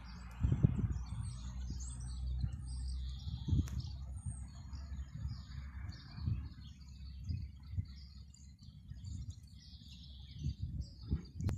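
Small birds chirping and twittering throughout, over a low, uneven rumble of wind on the microphone.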